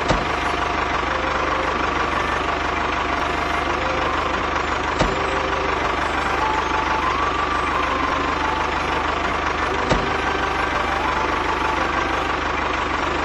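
Engine running steadily at idle, with two brief clicks about five and ten seconds in.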